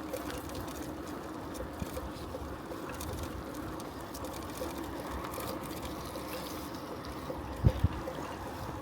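Steady rolling noise of a bicycle being ridden, with faint regular ticking and two low thumps in quick succession near the end.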